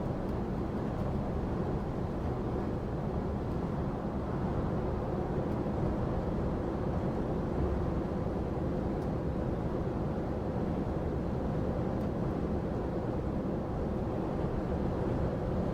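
Steady engine and road noise of a lorry on the move, heard from inside the cab, with a faint even hum over a low rumble.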